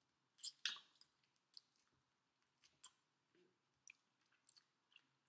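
Close-up eating of fried chicken: quiet chewing with scattered crisp crackles and mouth clicks, the two loudest about half a second in.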